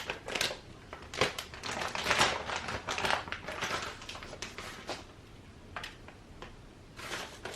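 Kitchen handling noise: rustling and scraping with quick light clicks and taps as cheese is sprinkled on top of crab-topped bread slices, busiest in the first half and sparser later.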